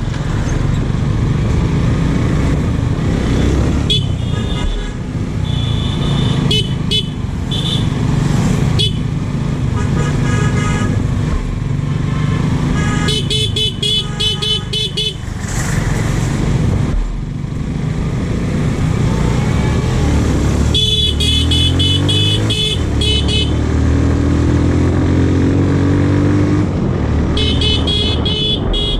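Motorcycle engine running under way, with several short horn honks spread through the ride. The engine pitch climbs as it accelerates about three quarters of the way through.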